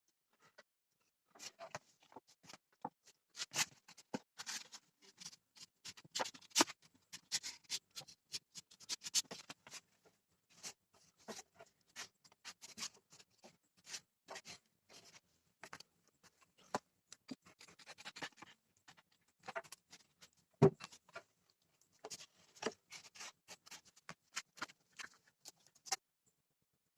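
Irregular scratching and clicking of hand work, with one heavier knock about two-thirds of the way through.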